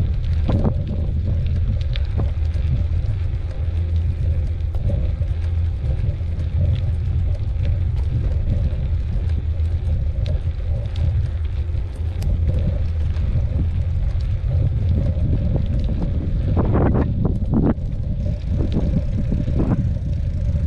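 Wind buffeting the microphone while a mountain bike rides along a dirt trail: a steady low rumble, with the bike clattering over bumps in a short burst about 17 seconds in.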